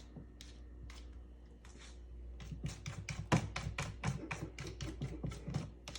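Cat scratching and pawing in a litter box: a few separate scratches at first, then from about two and a half seconds in a quick run of scratches, about five a second. This is the cat digging and pawing to cover a smelly spot in the box.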